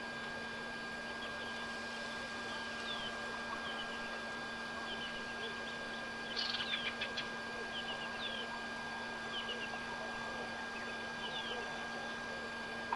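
High, short falling bird chirps every second or so, with a quick flurry of sharper chirps about six seconds in, over a steady electrical hum and hiss.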